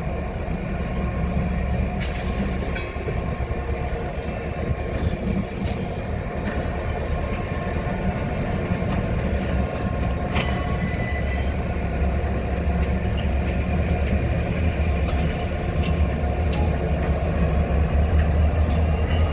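A train running past with a steady low rumble that grows a little louder near the end, with brief thin high-pitched wheel squeals.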